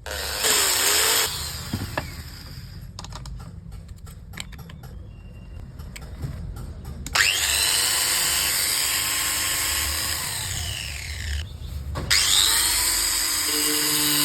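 Electric grinder switched on for about a second, then run twice for several seconds each, its motor whine rising as it spins up at each start. A few light clicks in the quieter gap between.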